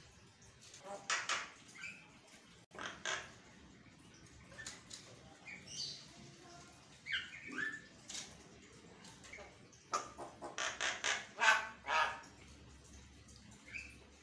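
Javan myna giving bursts of harsh, rasping calls mixed with short gliding whistled notes, in irregular groups with pauses between, the loudest cluster near the end.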